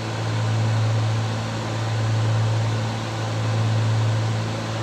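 Cessna 310's twin piston engines and propellers droning steadily in flight, heard from the cockpit, with a slow regular swell and fade in loudness.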